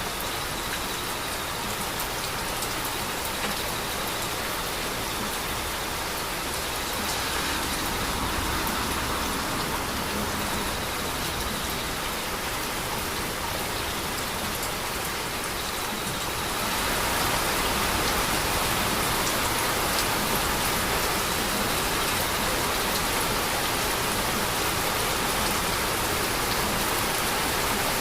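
Heavy rain falling steadily, with scattered drops ticking on a surface. It grows louder and heavier about two thirds of the way through.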